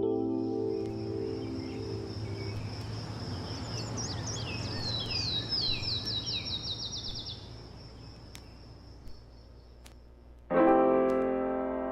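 Background music gives way to a steady hiss and low hum with a thin, steady high tone. Over these comes a run of quick, high, falling bird-like chirps that speed up and pile together, then fade. Piano music comes back loudly near the end.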